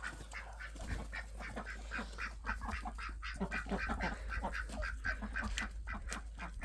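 A flock of domestic ducks quacking: many short overlapping calls, several a second, throughout.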